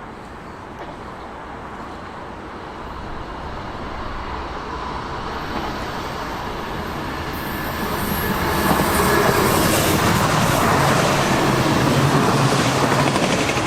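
A train approaching and passing close by, its wheels running on the rails, growing steadily louder and then staying loud for about five seconds before falling away near the end.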